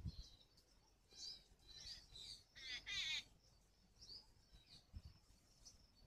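Faint chirps of small birds, with a quick chattering run of high notes about three seconds in.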